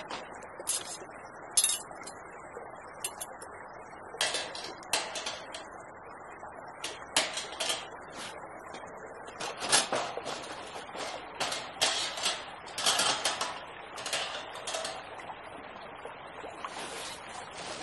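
Irregular sharp clicks and knocks, clustering more densely in the second half, over a steady rushing noise.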